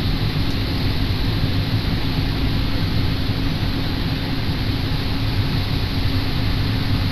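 Diesel railcar running noise heard inside the passenger cabin: a steady low rumble with a constant hum from the engine.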